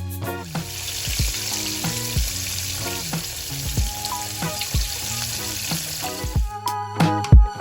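Coated chicken pieces frying in hot oil: a steady sizzle that stops about a second before the end, over background music with a beat.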